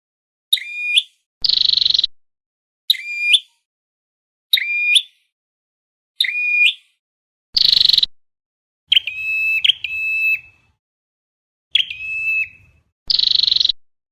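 Flowerpecker calls from a trapping lure recording: short sharp notes repeated about every second and a half, broken every few seconds by a harsher buzzing note. The calls start and stop cleanly, as on an edited, looped recording.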